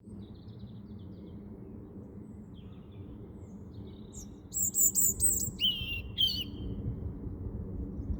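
A small bird chirping: faint high chirps at first, then, about four and a half seconds in, a loud run of rapid high notes ending in two lower, stronger notes. A steady low rumble runs underneath.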